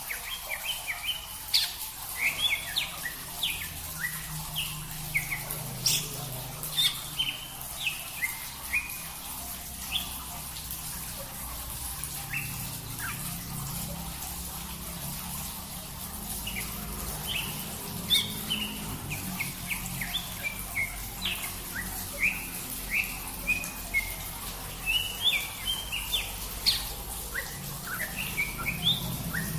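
Small songbirds giving short, sharp, high chirps in quick clusters, with a thinner patch about halfway through, over a low steady hum.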